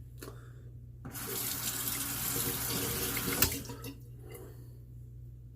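Bathroom sink tap running for about three seconds, with a sharp click shortly before the water stops.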